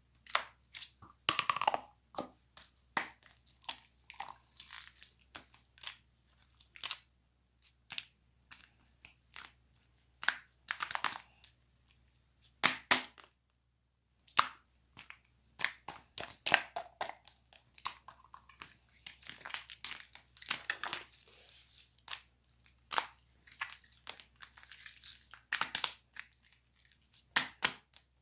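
Slime being squeezed and worked by hand, giving an irregular run of sharp pops and crackles.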